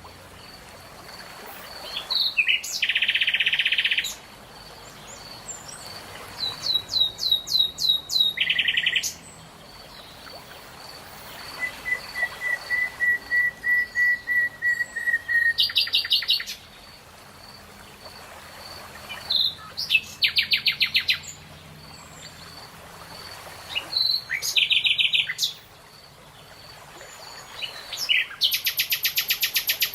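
Songbirds singing in short phrases of rapid high trills and buzzy chirps, a second or two each with short pauses between, one a thin steady whistle around the middle. A faint high note pulses about twice a second underneath.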